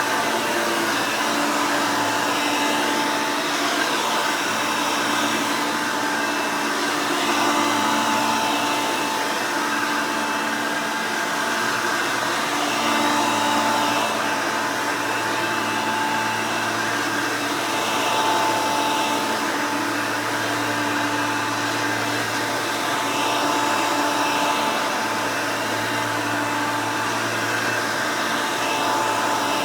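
Custom-built Hoover Elite upright vacuum cleaner, powered by a Hoover Elite 350 motor, running steadily: a constant motor whine over rushing airflow, swelling slightly in level every few seconds.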